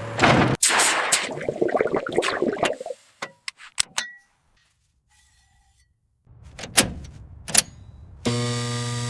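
A rapid run of metallic clanks and knocks, then a few sharp clicks and a short silence, followed by two single sharp knocks. Near the end a steady low musical drone begins.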